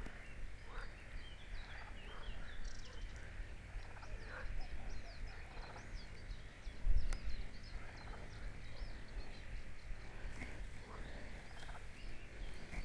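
Wild birds chirping in short rising and falling calls over a steady high background chorus, with a low outdoor rumble. A single dull thump comes about seven seconds in.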